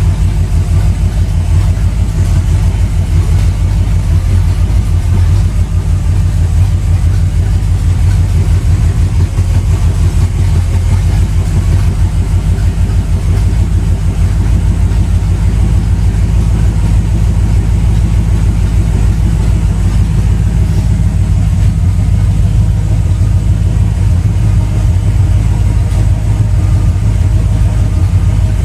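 A truck's carbureted engine idling steadily, a loud, low, fast-pulsing rumble.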